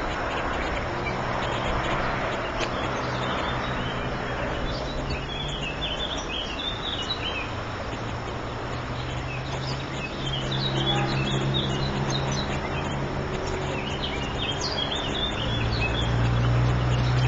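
Bursts of short, high bird chirps come several times over a steady low hum and rushing background noise, once about five seconds in, again around ten seconds, and most thickly near the end.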